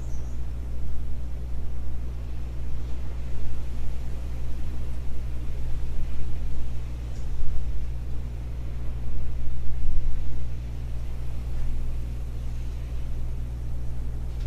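Rain falling on the building, a steady low rumble with a noisy hiss over it that swells for a few seconds in the middle and then eases.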